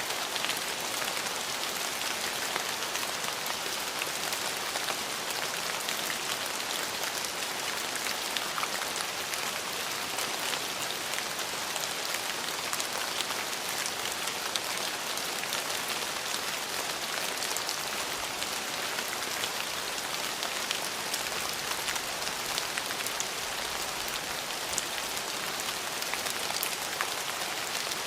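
Steady rain falling, a dense patter of many small drop hits over an even hiss.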